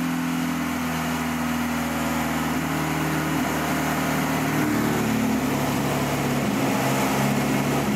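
Lada four-cylinder engine running steadily on a stand, warming up from a cold start. Its speed steps down slightly about a third of the way in and again past halfway as the revs are brought down.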